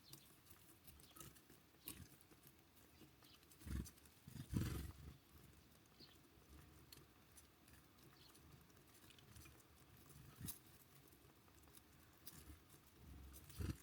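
Near silence, broken by a few soft low thumps, the clearest about four seconds in, and faint scattered ticks.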